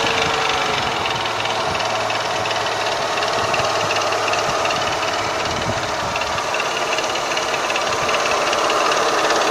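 Renault K4M 1.6 16-valve petrol engine idling steadily after start-up, with a constant metallic chatter from the timing-belt area. The owner cannot find the cause: unplugging the variable valve timing solenoid did not change it, so he doubts a failing cam phaser.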